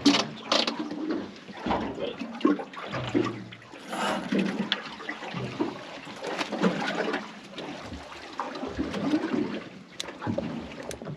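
Water splashing and trickling aboard a small boat, with irregular handling knocks and a couple of sharp clicks near the end.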